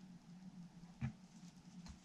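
A single light click or tap about a second in and a fainter one near the end, over a low steady hum: small handling noises at a workbench.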